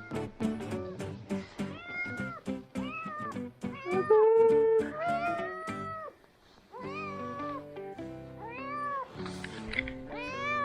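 A young Singapura kitten meowing repeatedly, in short high calls that rise and fall in pitch, over background music with a plucked-guitar rhythm.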